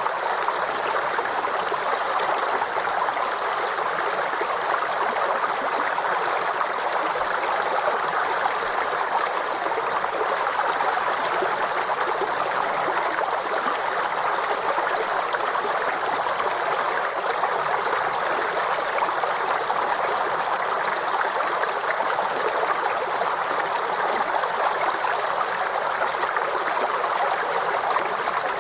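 Forest stream flowing and babbling over rocks, a steady, unbroken rush of water.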